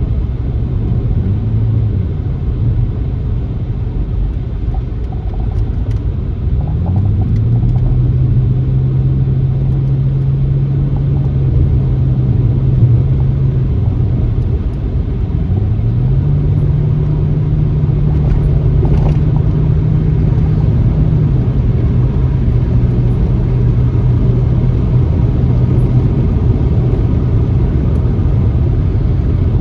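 Car driving on a country backroad: a steady low rumble of road and tyre noise under the engine note. The engine note rises as the car speeds up about seven seconds in and again around sixteen seconds, then drops back a few seconds later.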